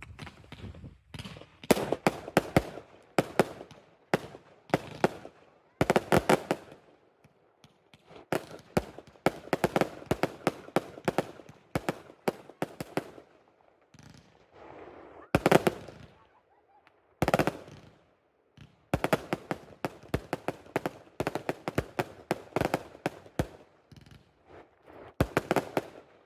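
Fireworks going off: volleys of rapid sharp cracks and crackling in bursts a few seconds long, with gaps between them, and single loud bangs about 15 and 17 seconds in.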